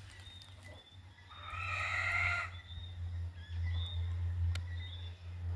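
Outdoor ambience with a steady low wind rumble and faint bird chirps, broken by one drawn-out animal call lasting about a second, starting about a second and a half in. A single sharp click comes near the end.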